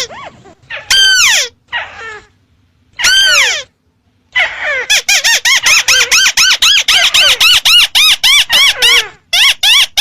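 Lure recording of a crake (burung tikusan) calling: fast runs of short, arched squeaky notes, two longer notes sliding downward in the first few seconds, brief pauses, then a rapid steady series of notes to the end.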